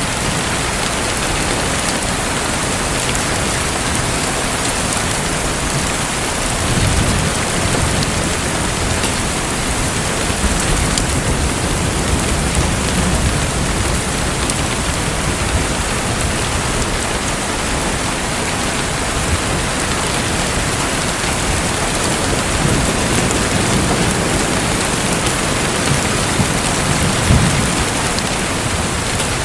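Steady, dense rushing water noise, with low rumbles swelling about seven seconds in, again around eleven to thirteen seconds, and from about twenty-three to twenty-seven seconds.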